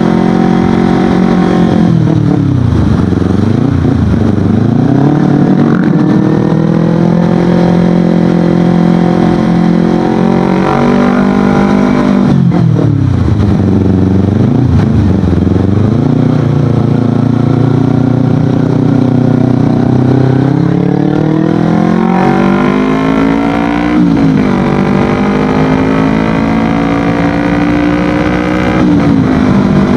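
Kawasaki Ninja 250FI's parallel-twin engine running through an Akrapovic exhaust while ridden. The revs fall with a few quick dips and rises twice, like slowing and shifting down, then climb steadily with short drops near the end, like upshifts under acceleration.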